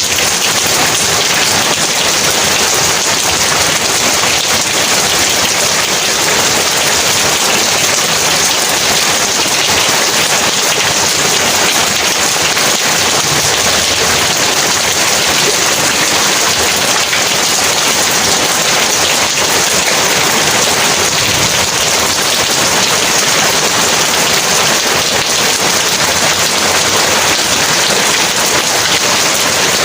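Heavy rain pouring steadily, a dense, even hiss of drops without let-up.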